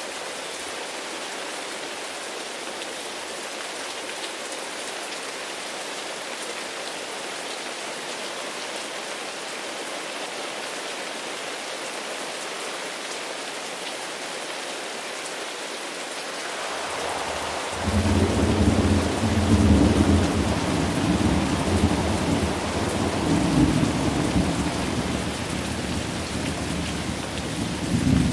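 Steady rain falling, then about seventeen seconds in a long roll of thunder builds in and rumbles on under the rain, rising again near the end.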